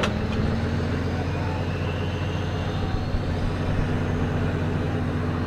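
Tow truck's engine running steadily.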